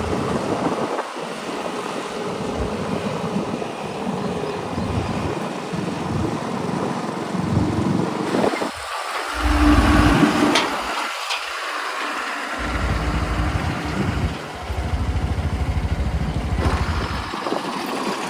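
Diesel engine of a heavy vehicle running on the move, a continuous mechanical noise with irregular low rumbling surges.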